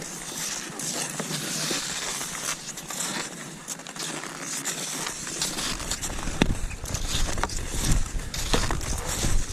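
Cross-country skis and poles working through snow: a steady crunching crackle. From a little past halfway, heavier thumps come in about once a second with the stride.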